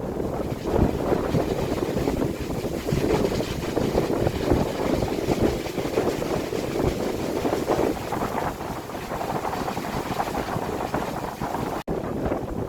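Strong wind gusting and buffeting a phone microphone: a low, uneven noise that swells and eases. It cuts out for an instant near the end.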